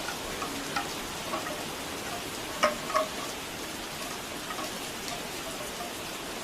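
Steady rain with hollow bamboo wind chimes knocking now and then, two louder clacks close together a little before the middle.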